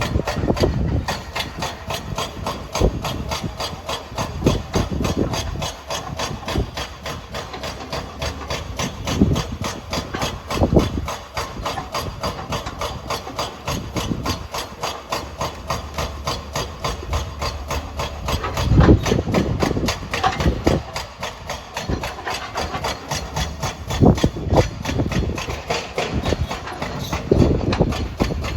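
Heavy construction machine running, with a fast, even knocking and a heavier thump every few seconds.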